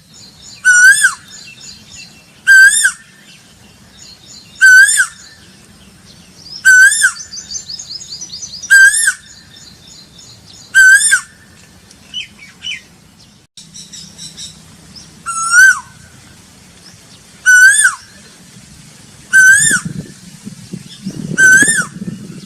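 Asian koel (koyal) calling: a loud, clear single note that swoops up and falls away, repeated about every two seconds, with one longer pause midway. A faint high-pitched chatter runs underneath, and a low rumbling noise comes in near the end.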